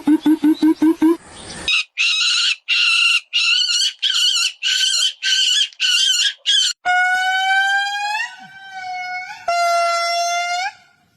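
A run of different animal calls. First a second of rapid pulsed calls, then about ten harsh calls evenly spaced a little under half a second apart, then two long, high-pitched calls near the end.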